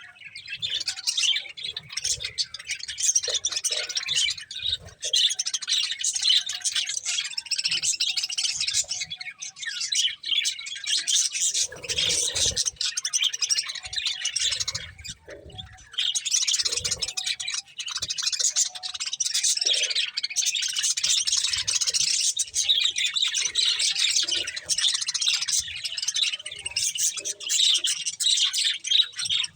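Budgerigars chattering with fast, overlapping high chirps and warbles. The chatter thins for a few seconds near the middle.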